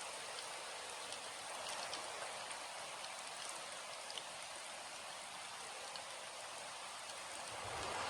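Steady rain falling, with scattered drops ticking distinctly over an even hiss. A low rumble of thunder begins to swell in near the end.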